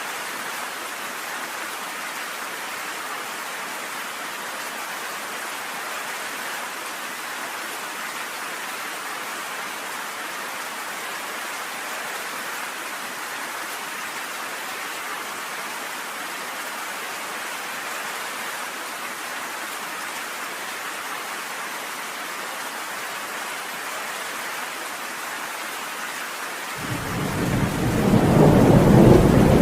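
Steady rain pelting down on a cabin porch, an even hiss. Near the end, a loud rumble of thunder sets in suddenly and swells, drowning out the rain.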